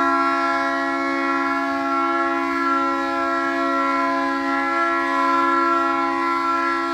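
A steady, unbroken horn-like chord: two close low notes with many overtones, held at one pitch and level throughout.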